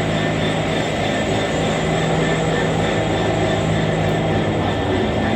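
Class 66 diesel-electric locomotive's two-stroke V12 engine idling steadily while the freight train stands stopped.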